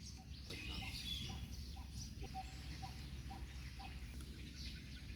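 Birds chirping, with a run of short repeated call notes about twice a second over a steady low rumble.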